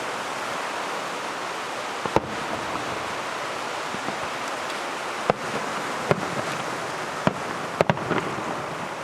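Fireworks display: about six sharp reports of shells bursting, two of them close together near the end, over a steady rain-like hiss.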